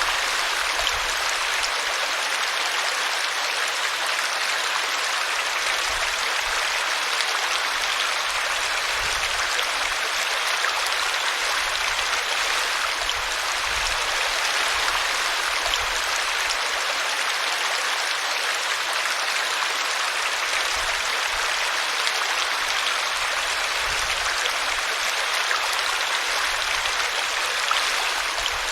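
A small brook splashing and gurgling steadily as it spills over a tree root.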